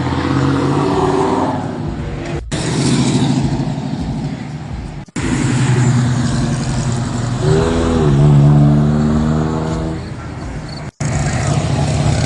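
Car engines running, over a few short clips joined by abrupt cuts; about eight seconds in one revs up and drops back.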